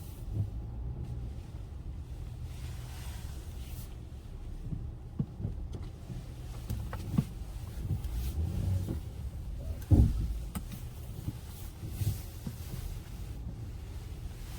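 Low, steady rumble of a 2021 Honda Ridgeline pickup driving, heard from inside the cabin, with a few light clicks and a single thump about ten seconds in.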